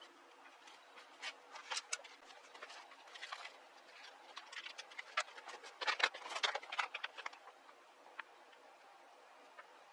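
Scattered light clicks and rattles of small hard objects being handled, busiest about six seconds in; no engine is running.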